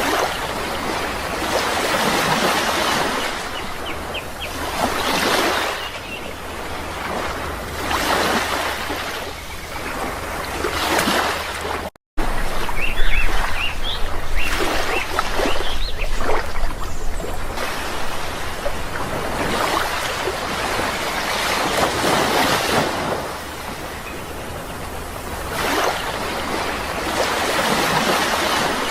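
Sea waves breaking and washing up on a shore, surging and easing every few seconds, with a few faint bird chirps. The sound cuts out to silence for a split second about twelve seconds in.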